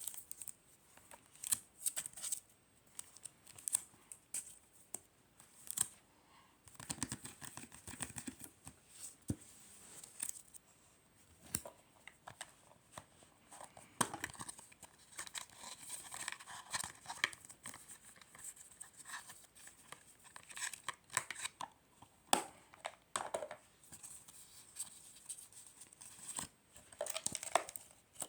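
Hands handling packaging: paper or plastic wrapping being torn and crinkled, with many short sharp ticks and taps and longer crackling stretches.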